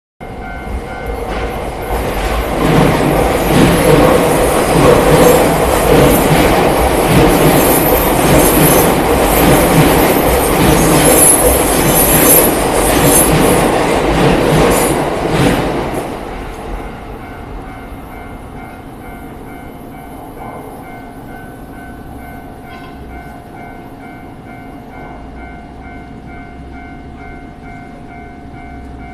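A train runs over a Japanese railway level crossing. The wheels rumble and clatter on the rails loudly for about the first sixteen seconds, then the noise falls away. The crossing's electronic warning bell dings steadily and repeatedly throughout.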